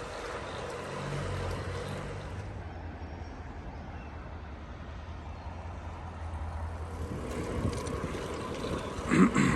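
A motor vehicle's engine giving a low, steady hum that fades away about seven seconds in, heard over wind noise on the microphone of a moving bicycle. A brief louder sound comes just before the end.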